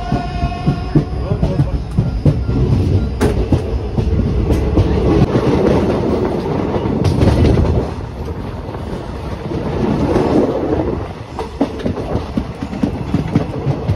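Passenger express train coach running along the track: a loud, steady rumble of wheels on rails with many quick clicks and clatter over the rail joints.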